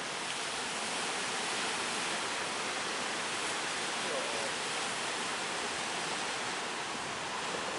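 Steady rushing roar of ocean surf and breaking waves.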